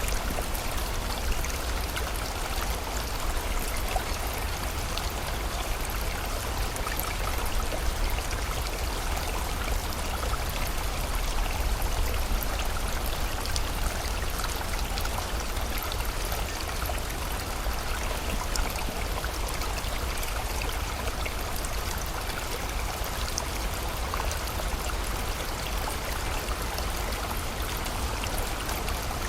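Steady rush of flowing water from a stream or river, with rain falling.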